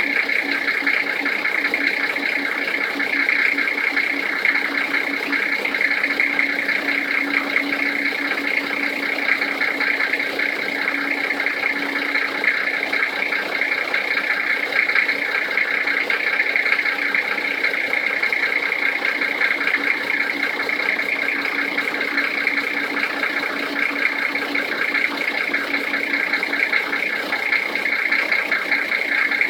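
Toyota 1HZ 4.2-litre inline-six diesel engine idling cold, with a steady fast knock running through it: the knock this engine makes while cold.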